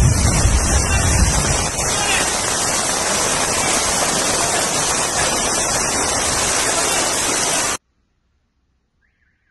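Heavy rain and fast-flowing floodwater making a loud, steady hiss, with more low rumble in the first couple of seconds. It cuts off suddenly to near silence near the end.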